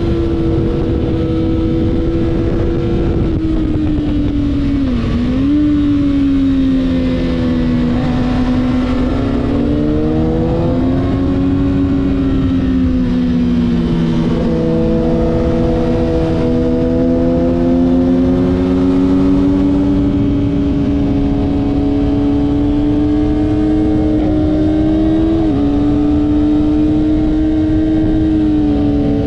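Kawasaki ZX-6R four-cylinder sportbike engine under way at track speed, its pitch sagging and climbing with the throttle and stepping abruptly at gear changes about 5 seconds in and again near the end, over a steady rush of wind noise.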